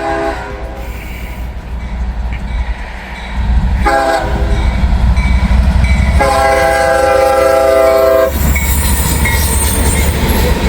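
CSX freight train arriving: the locomotive's air horn sounds a short blast, then a long one of about two seconds, over the heavy low rumble of the diesel locomotive. After the horn, a hiss of steel wheels on the rails follows as the train rolls by.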